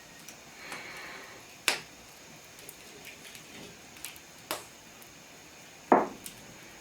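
A few separate sharp knocks and clicks over a faint steady hiss, the loudest and deepest about six seconds in.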